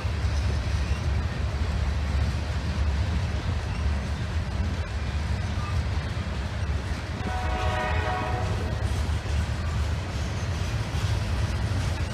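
Nathan K5LA air horn on a Canadian Pacific GE AC4400CW locomotive sounding one blast of about a second and a half, a little past halfway through. A steady low rumble from the passing train runs underneath.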